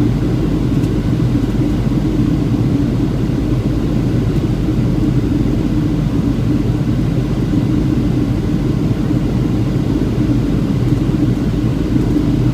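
Steady low rumble of a Boeing 737-700's engines and airflow, with a constant hum running through it.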